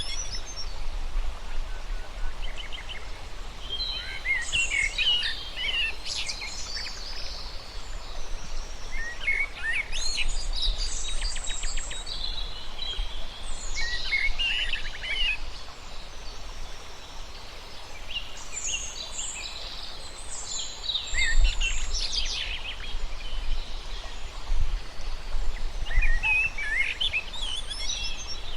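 Songbirds chirping and warbling in short bursts every few seconds, several calls overlapping, over a steady low rumble.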